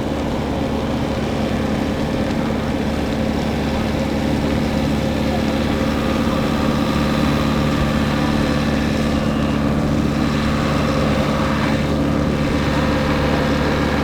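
A large engine running steadily at a constant speed, a loud even hum with several fixed tones.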